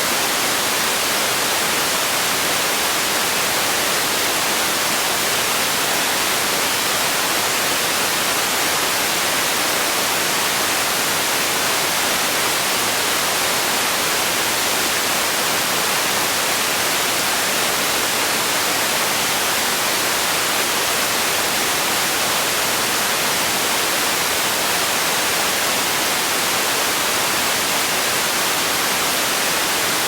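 Steady white-noise hiss, even and unchanging, strongest in the high frequencies.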